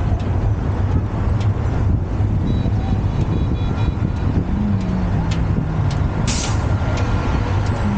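City street traffic: a steady low rumble of engines, with a short sharp hiss about six seconds in.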